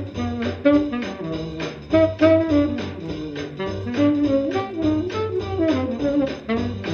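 Instrumental chorus of a 1939 swing dance-band record: saxophones carry the melody over a steady beat, with the muffled top end of an old recording.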